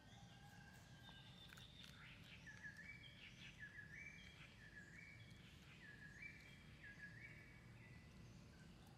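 Faint bird song: a repeating run of short whistled notes, each stepping down in pitch, over a low steady background rumble.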